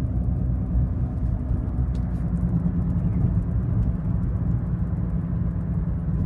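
2006 Volvo S60 T5's turbocharged inline-five idling steadily through an IPD catback exhaust, a low even rumble.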